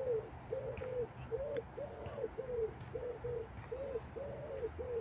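Wood pigeon cooing: a run of short, low, husky coos at about two a second.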